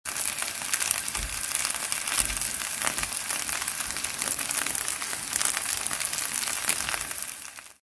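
Breaded potato cutlets sizzling in oil on a ridged grill pan: a steady hiss full of fine crackles, fading out near the end.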